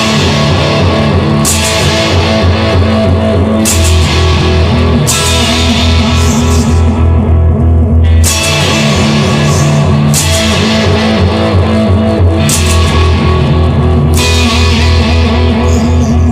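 Instrumental rock intro: distorted electric guitar and bass over a drum kit, with cymbal crashes every second or two.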